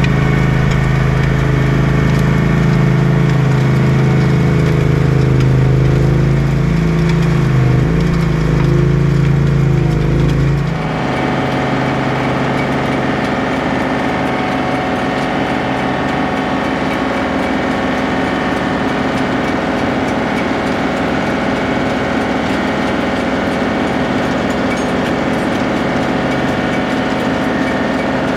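Tractor engine running steadily under work, its low tone wavering. About eleven seconds in it changes abruptly to a different, steadier engine sound.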